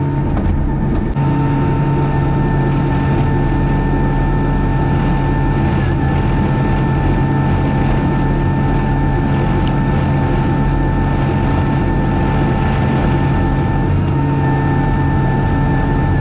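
Skid steer engine running steadily under load while pulling a grader attachment through a gravel driveway, with a steady high whine over the engine drone.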